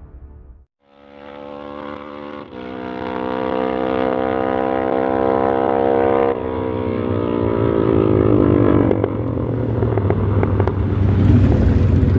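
Dodge Coronet's Mopar 440 big-block V8 running with a steady exhaust note, which shifts about six seconds in and grows louder and rougher toward the end.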